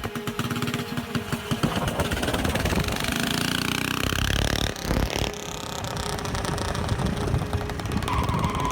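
Small mini bike engine running, its pitch rising for a moment about three seconds in.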